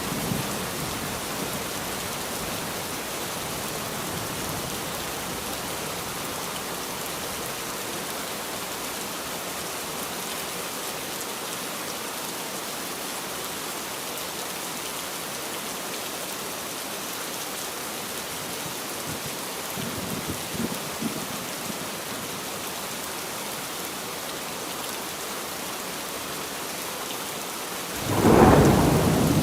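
Steady rain falling, with a brief low rumble of thunder about two-thirds of the way through and a louder roll of thunder near the end.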